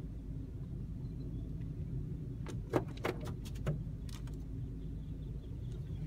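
Low steady rumble inside a car, with about half a dozen short sharp taps or clicks in the middle.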